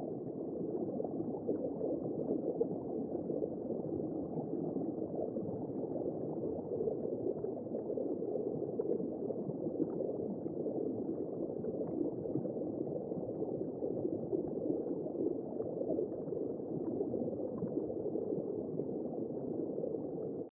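Womb-sound white noise for soothing a baby: a steady, muffled whooshing rush, like sound heard from inside the womb. It cuts off suddenly at the very end.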